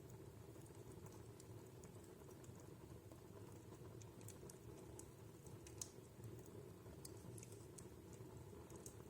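Wood fire in a fireplace crackling softly: scattered small pops and clicks over a low steady rumble, with the loudest pop about six seconds in.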